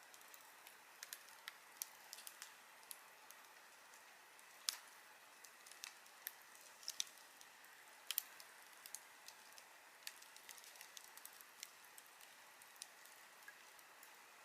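Campfire crackling faintly: burning wood gives irregular sharp pops and ticks over a soft steady hiss. Two pops stand out, about five and eight seconds in.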